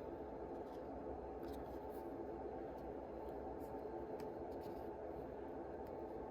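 Trading cards being handled: a few faint light clicks and rustles as cards are slid and flicked, over a steady low background hum.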